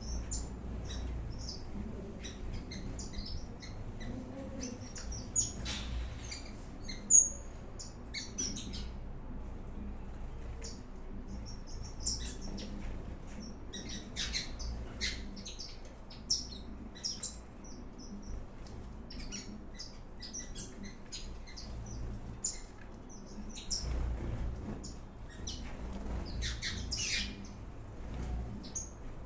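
Many small ornamental birds in an aviary chirping and calling over one another: a steady scatter of short, high chirps, with one louder, sharper chirp about seven seconds in.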